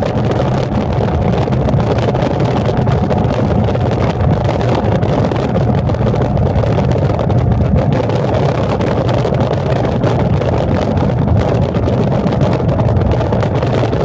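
Train running, a steady low rumble with a faint constant hum, unchanging throughout.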